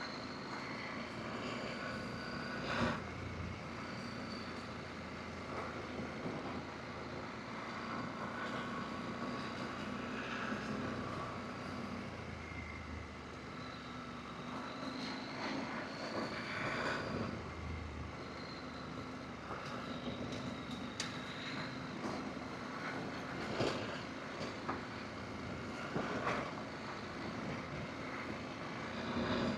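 Adventure motorcycle engine running steadily while riding a dirt road, with a few short knocks along the way.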